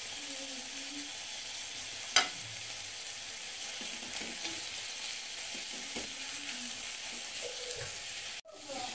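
Onions, tomatoes and freshly added ground spices sizzling in oil in a small aluminium kadai, with a spatula stirring and scraping through them. This is the spiced base for an aloo paratha filling being fried. A single sharp tap of the spatula on the pan comes about two seconds in, and the sound cuts out briefly near the end.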